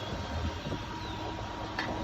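Ford bucket truck running at raised idle with the PTO-driven hydraulic pump engaged, a steady low hum with a faint thin whine over it.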